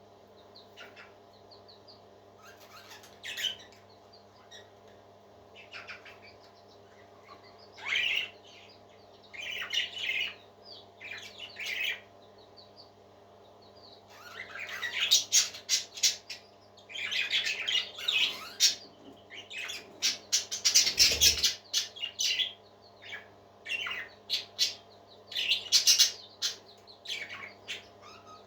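Baby parrot squawking and chirping in short, raspy calls, a few scattered at first and then coming in quick runs about halfway through, over a steady low hum.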